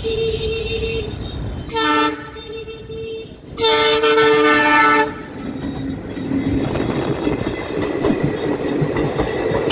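Indian Railways diesel locomotive sounding its multi-note horn in several blasts, the longest and loudest about three and a half seconds in and lasting over a second. It is followed by the steady rumble of its passenger coaches running over the level crossing.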